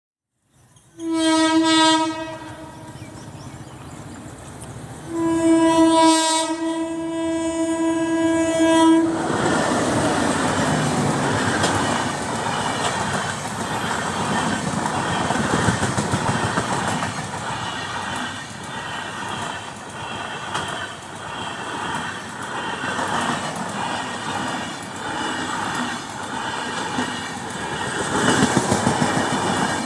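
Indian Railways locomotive horn sounding a short blast, then a long one of about four seconds, followed by the passenger train with LHB coaches running past with a steady rumble and the clatter of wheels over rail joints.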